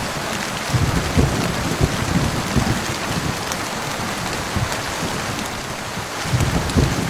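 Heavy rain falling steadily, with low rumbles of thunder that swell and fade, easing off past the middle and building again near the end.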